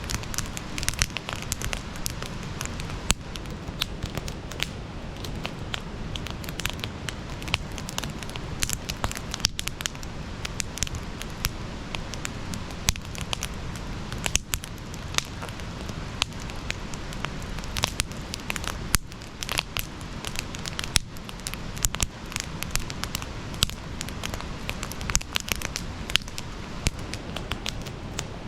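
Campfire burning and crackling: a continuous run of irregular sharp pops and snaps over the steady low noise of the flames.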